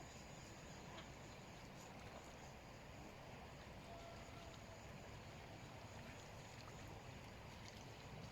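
Near silence: faint, steady outdoor ambience with a few very faint short tones about halfway through.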